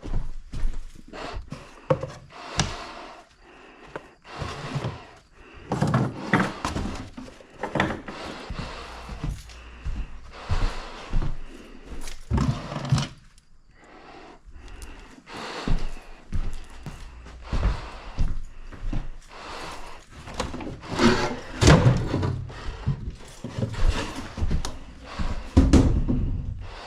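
Irregular knocks, thumps and scraping of hard objects being handled and moved, with rustling between the impacts.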